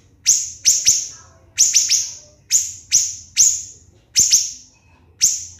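Siri-siri bird giving loud, shrill, clipped call notes (the 'tembakan' shots), in singles and quick doubles or triples about once or twice a second.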